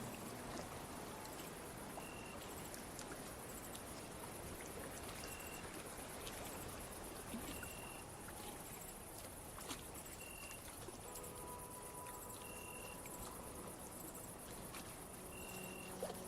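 Crickets chirping steadily in a night ambience, with a short high call repeating about every two and a half seconds over a faint, even hiss.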